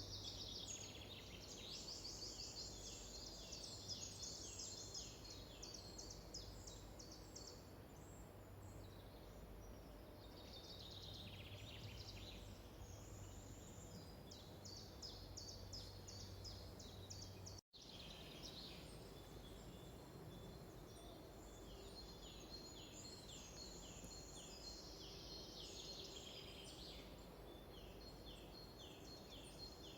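Forest birdsong, faint: small songbirds singing phrases of fast high trills and series of short falling notes, with a brief dropout partway through.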